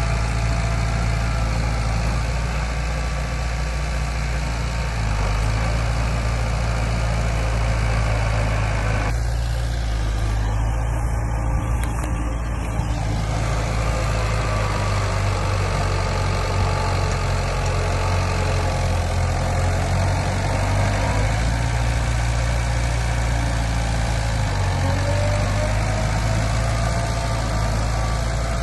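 Heavy construction machinery's diesel engine running steadily, with small shifts in its note over the half-minute.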